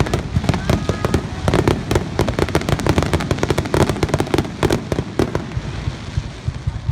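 Fireworks display: aerial shells bursting in a rapid barrage, many sharp bangs and crackles a second, thinning out a little near the end.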